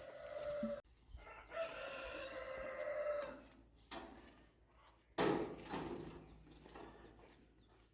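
A rooster crowing: one long held call of about two seconds, with a shorter call at the start. About five seconds in a sudden noisy sound cuts in and fades over a couple of seconds.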